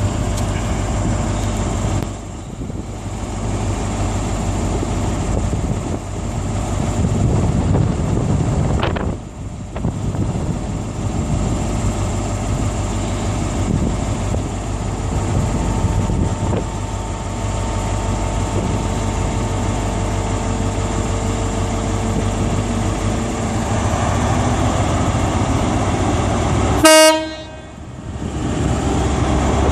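Passenger train's engine running steadily at the platform, then one short, loud horn toot near the end.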